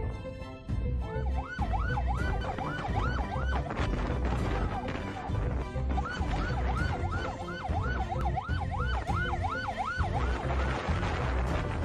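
Emergency siren in a fast yelp, its pitch rising and falling about three times a second, in two spells with a short break between. Background music with a steady low beat plays underneath.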